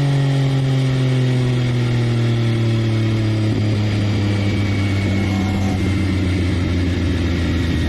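An engine running steadily, its pitch slowly sinking, with a slight change in the sound about three and a half seconds in.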